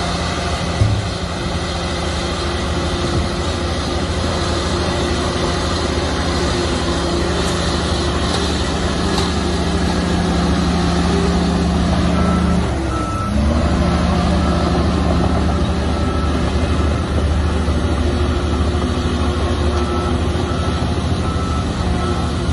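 Heavy diesel earthmoving machinery running steadily, its engine pitch dipping briefly and recovering about halfway through. A reversing alarm beeps repeatedly in the second half.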